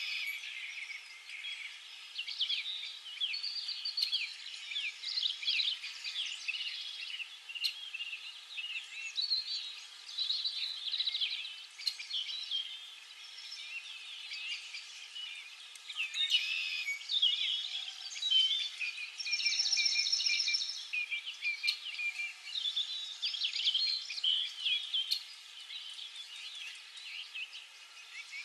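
Many birds chirping and calling at once, a continuous tangle of short high chirps and whistles, with a brief buzzy call about two-thirds of the way through.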